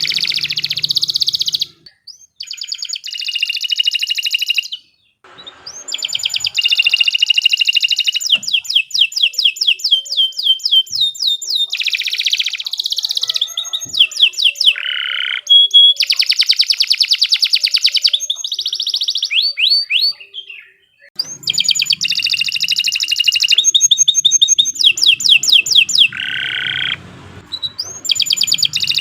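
Domestic canary singing a long song of fast trills and rapidly repeated sweeping notes, high-pitched, in phrases broken by a few brief pauses.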